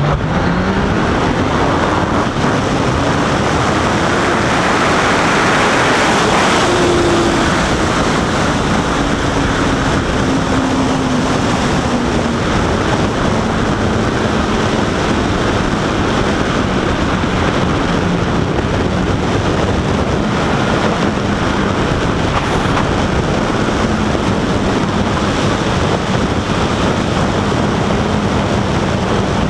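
Honda CBR1000RR Fireblade's inline-four engine accelerating hard, its pitch climbing over the first few seconds, then settling into a steady cruise with the pitch easing slightly lower. Heavy wind rush on the microphone runs underneath throughout.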